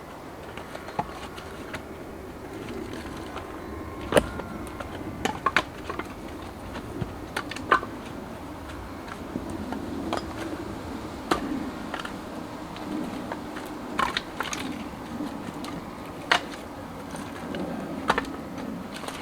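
Firewood being chopped: a dozen or so sharp wooden knocks at irregular intervals, over a low steady hum.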